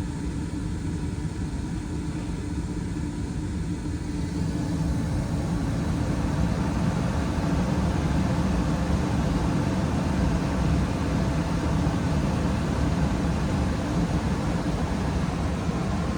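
A 2019 Carrier Performance Series 80% gas furnace is running. A steady low hum comes from its draft inducer motor. About four to five seconds in, a louder, broader rushing sound builds in and then holds steady.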